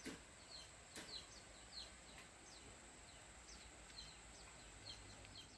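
Faint outdoor ambience: a bird repeating short, high, downward-sliding chirps every half second or so, over a steady high-pitched whine and a couple of faint knocks.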